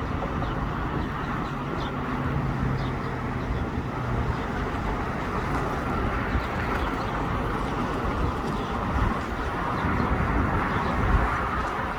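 Steady hiss of extremely heavy rain pouring down. A low steady hum underneath stops about four seconds in.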